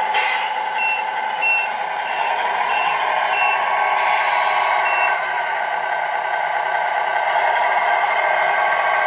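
Radio-controlled Tamiya Scania R620 truck reversing: a steady engine-and-motor hum with a row of short, high reversing beeps about every 0.6 s, and two bursts of hiss, one at the start and a longer one about four seconds in.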